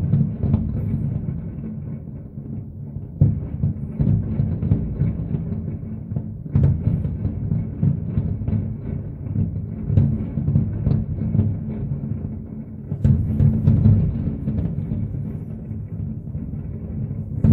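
Aerial fireworks display: dense, continuous booming of many shells bursting together, with sharper, louder bangs about every three seconds.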